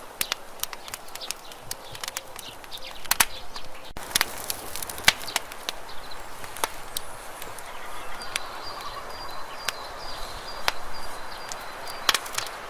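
Wood campfire burning, crackling with frequent sharp, irregular pops over a steady low hiss of flame.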